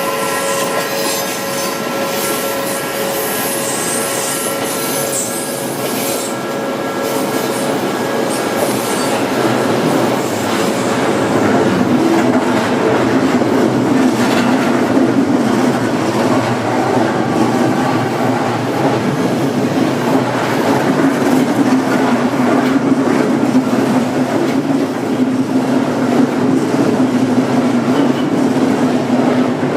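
Odakyu Line ten-car electric trains passing each other at a level crossing: a high wheel squeal in the first few seconds, then the rumble and clatter of the wheels on the rails grows louder from about ten seconds in and holds steady.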